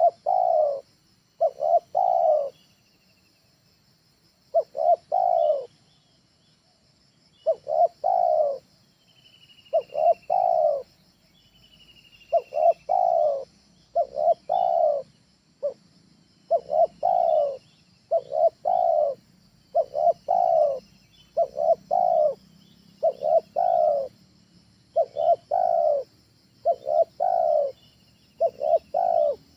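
Spotted dove (tekukur) cooing over and over in short phrases of two or three coos, a phrase every second or two. Faint thin falling chirps from a small bird sound between the coos.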